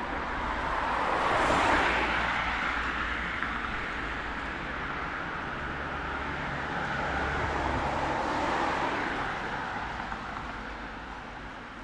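Two cars passing one after another on a wet street, their tyres hissing on the rain-soaked road; the first peaks about two seconds in, the second about eight seconds in.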